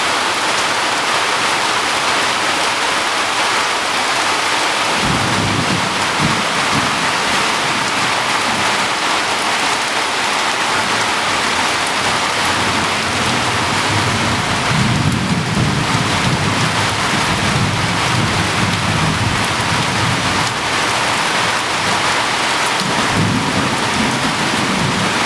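Heavy rain pouring steadily, with low rolls of thunder rumbling three times: about a fifth of the way in, around the middle, and near the end.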